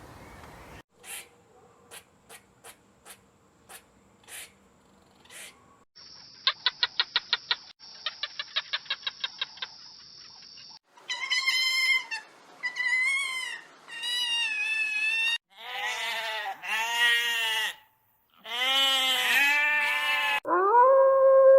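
A sequence of different animal calls. First come scattered short clicks, then two runs of rapid high chirping pulses, then several wavering pitched calls of the kind a goat or cat makes. About a second before the end, a long steady howl begins.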